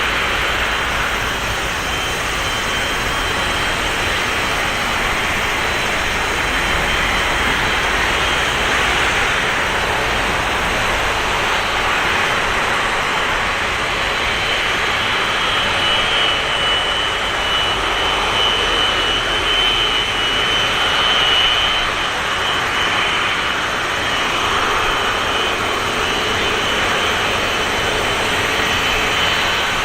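Jet engines of a Boeing 737-200, its Pratt & Whitney JT8D turbofans, running with a steady loud jet noise and a faint high whine that strengthens in the middle.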